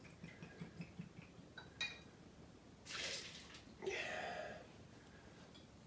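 Faint clinks of liquor bottles and a measuring glass being handled, with a brief splash of liquor being poured about halfway through.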